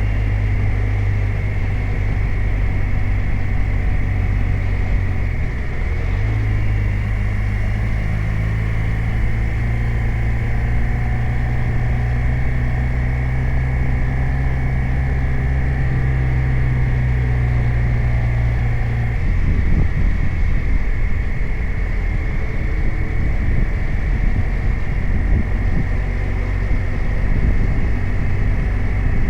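BMW R 1250 RT's flat-twin boxer engine running under way on the road. Its steady note steps up about six seconds in, holds, then turns rougher and less even about two-thirds of the way through.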